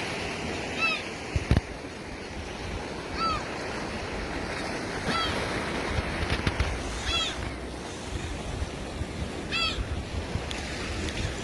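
Waves washing on a beach, with a bird giving a short call about every two seconds, five times.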